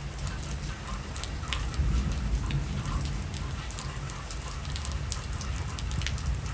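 Heavy rain pouring down, with many sharp drops striking over a continuous low rumble that grows a little louder about two seconds in.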